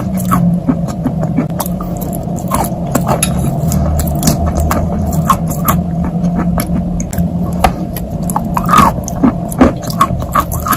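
Many small, irregular clicks and crackles over a steady low hum.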